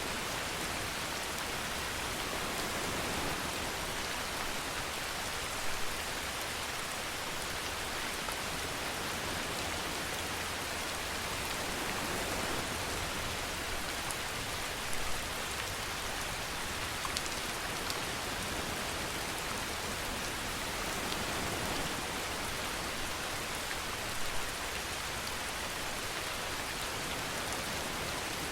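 Steady rainfall, an even hiss of drops, with a few brief louder drops or splashes now and then.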